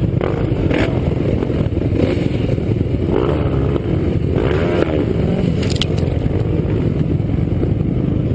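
Dirt bike engines running and revving unevenly, their pitch rising and falling. Short knocks and scrapes cut in now and then.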